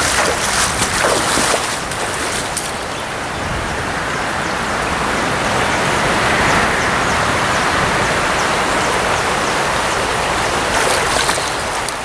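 Fast-flowing river current rushing steadily, with irregular splashing in the first couple of seconds and again near the end.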